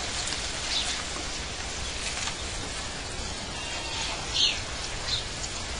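Outdoor nature ambience: a steady background hiss with a few short, high bird chirps, the loudest about four and a half seconds in.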